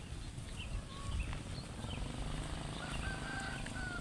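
Birds calling outdoors with short, high chirps every half second or so, and a longer held call near the end, over a low rumble.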